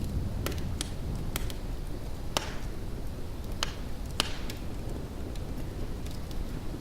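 Fire crackling: sharp, irregular pops, the loudest about two and a half and four seconds in, over a steady low rumble of distant thunderstorm noise.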